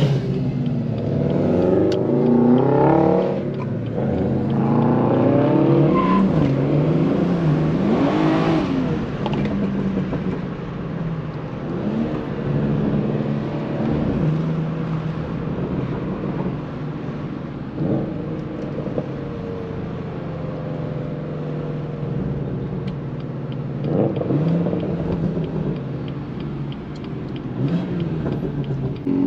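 BMW 340i's turbocharged inline-six running as the car is driven, the revs rising and falling several times in the first nine seconds, then settling into a steadier drone with a few short rises in revs.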